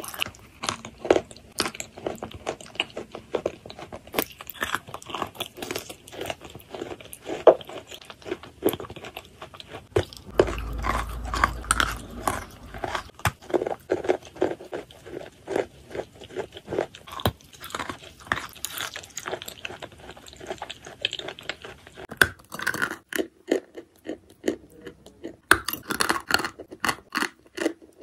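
Close-up chewing and crunching of lumps of edible chalk: a steady run of small crisp crunches and mouth sounds. A low rumble joins in about ten seconds in and lasts a few seconds.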